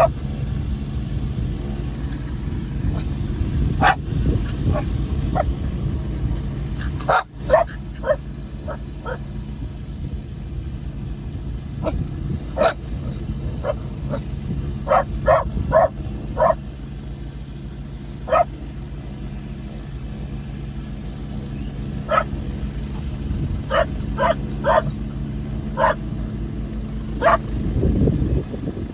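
A dog barking repeatedly in short, sharp barks, sometimes singly and sometimes in quick runs of three or four, over a steady low engine drone.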